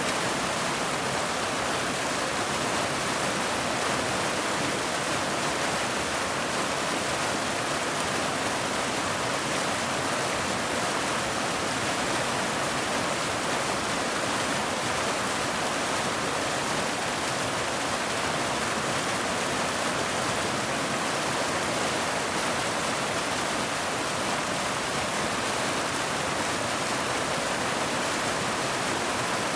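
Steady rain: an even, unbroken hiss that holds at one level throughout.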